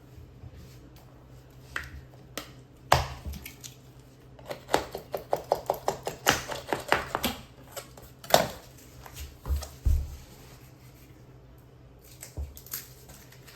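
Caulking gun being worked: scattered sharp clicks and knocks, with a quick run of about four clicks a second in the middle as the trigger is pumped.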